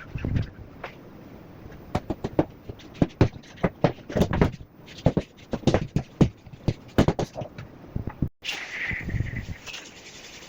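A quick, irregular run of knocks, clicks and scrapes, like things being handled or struck, lasting several seconds. It stops abruptly at a cut, and a low rumble with steady background noise follows.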